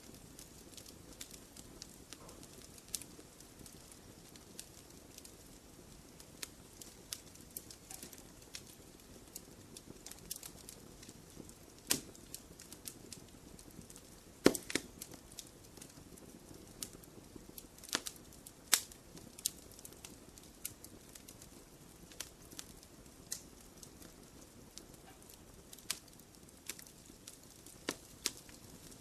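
Fireplace fire crackling: irregular small snaps and pops over a soft hiss, with a few louder pops, the loudest about halfway through.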